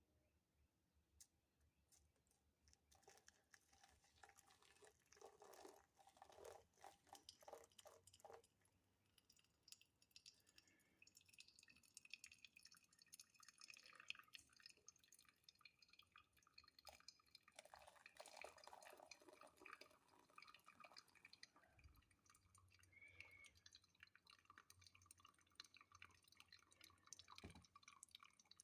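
Faint dripping and trickling of boiled water filtering through coffee grounds in a makeshift brew, with scattered small clicks and taps.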